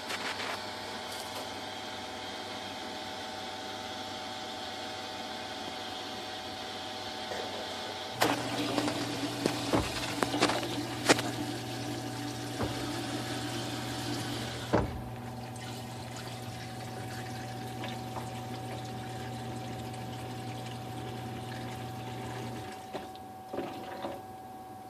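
Water running through newly fitted dishwasher plumbing that is leaking. A low steady hum starts about eight seconds in and stops near the end, with several sharp clicks and knocks early in the hum.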